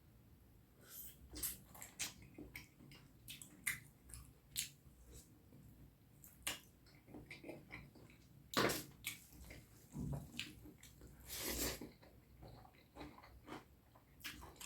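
Close-miked eating of curry and rice: irregular wet clicks, smacks and squelches of chewing, with a sharp loud smack about two-thirds of the way in and a longer squelch soon after.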